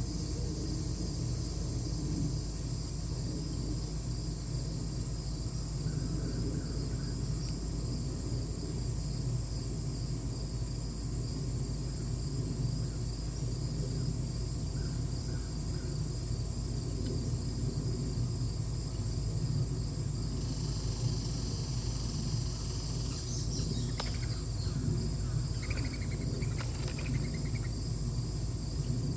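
Insects trilling in a steady, fast-pulsing high chorus over a low rumble, with a few short chirps near the end.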